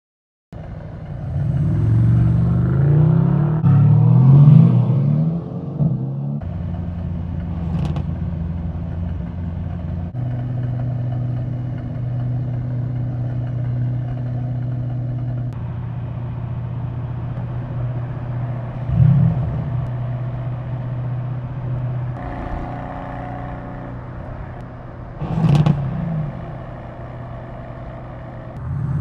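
Car engines running and revving across several cut-together shots: the revs climb repeatedly in the first few seconds, then hold steady, with two short throttle blips in the latter half.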